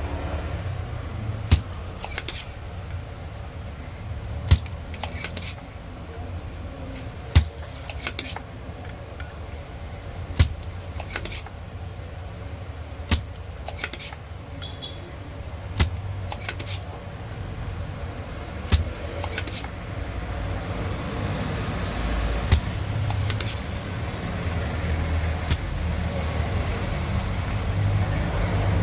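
Scattered sharp clicks and taps of small tools working on an amplifier's circuit board while an IC is being replaced, coming at irregular intervals over a steady low hum.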